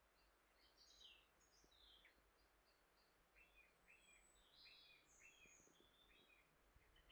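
Near silence with faint birds chirping: many short high notes, including a run of about half a dozen repeated short notes in the middle.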